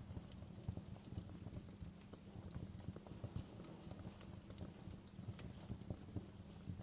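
Fire in a fireplace crackling: frequent small, irregular pops and snaps over a low, steady rumble of the flames.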